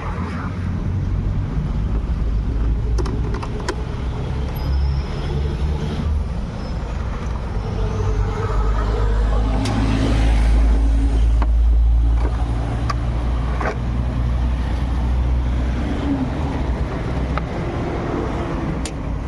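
Motor vehicle on the move: a steady low engine and road rumble that swells about halfway through, with a few scattered clicks and knocks.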